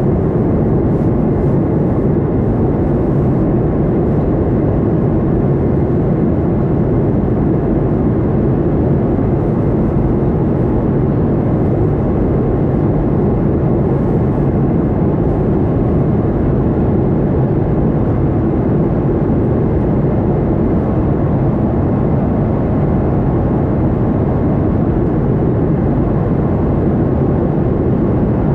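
Boeing 737-800 airliner's engines and airflow giving a steady, even low drone that does not change.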